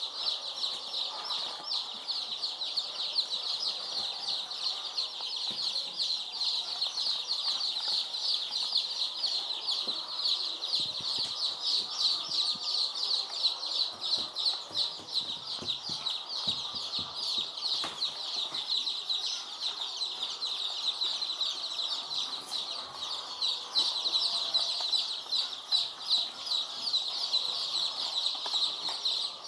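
A large flock of day-old layer chicks peeping continuously, a dense chorus of many overlapping high, short chirps.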